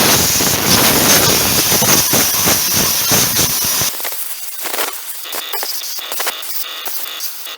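Compressed-air blow gun blasting dust out from between the valve cover and intake manifold: a loud steady hiss that cuts off about four seconds in, followed by quieter scraping and handling sounds.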